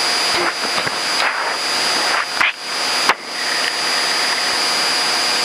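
Steady engine and cabin noise of a Cessna 172M idling on the ground, a hissing wash of sound with a couple of brief dips about halfway through.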